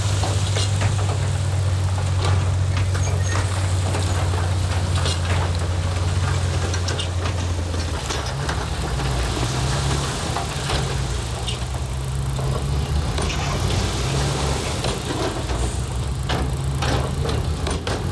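Heavy diesel engine of earthmoving machinery running steadily, its note shifting about eight seconds in. Scattered knocks and clatter over it, more frequent near the end.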